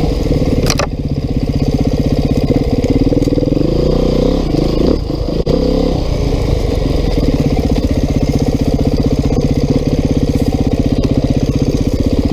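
Single-cylinder four-stroke engine of a 2019 Beta 390 RR-S enduro bike running while ridden, the revs rising and falling as the throttle is worked. A sharp knock comes just under a second in.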